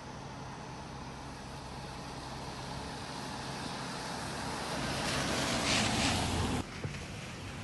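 Street traffic: a car passing, its tyre and engine noise building to a peak, then cutting off abruptly about two-thirds of the way through.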